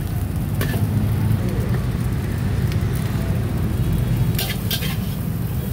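Steady low rumble of a street-stall wok burner, with a few sharp clicks of a metal spatula striking the wok, three in quick succession near the end.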